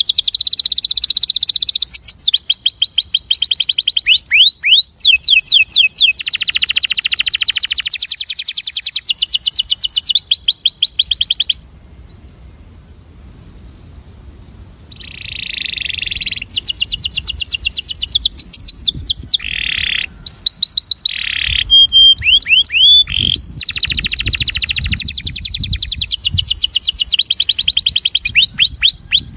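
Male canary singing its courtship song: fast, high trills of rapidly repeated notes, with a pause of a few seconds near the middle before the song resumes.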